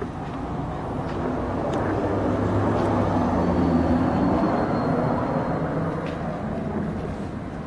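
A passing vehicle's engine: a low hum swells to its loudest about halfway through and then fades away.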